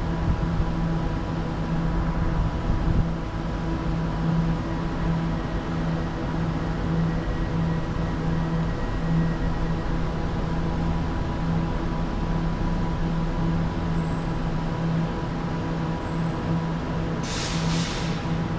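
Electric train humming steadily, a constant drone with fixed tones that neither rises nor falls. A short burst of air hisses about seventeen seconds in.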